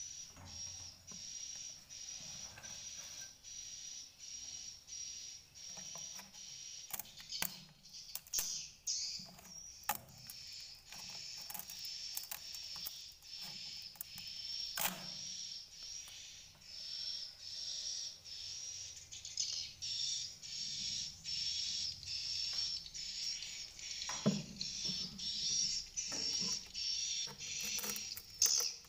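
Edible-nest swiftlets twittering inside a swiftlet house: a steady stream of rapid, high-pitched chirps, with scattered sharp clicks and a few soft knocks.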